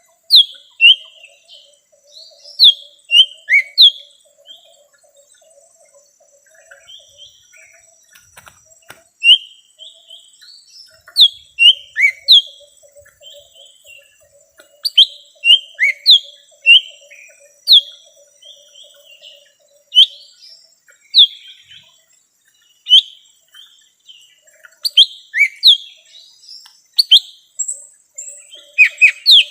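Lesser green leafbird (cucak ijo mini) singing a lure call: loud, sharp, downslurred whistled notes in quick clusters of two to five, separated by short pauses. A faint low, fluttering chatter runs underneath for much of the time.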